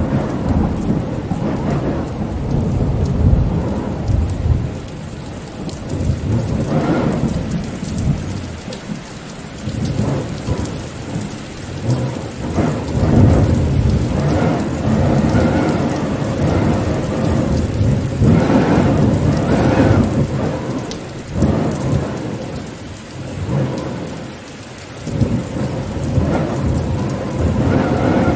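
Rain falling with wind, a deep rumbling noise that swells and fades every few seconds over a fainter hiss of rain.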